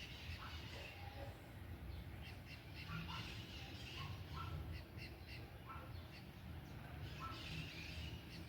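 A bird calling, short calls repeated roughly once a second, over a steady low rumble.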